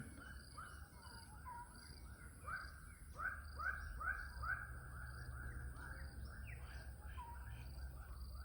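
Birds calling back and forth in a chorus of short repeated "tum" notes, some near and some far, answering one another about two or three times a second. A thin, steady insect drone sits high above them.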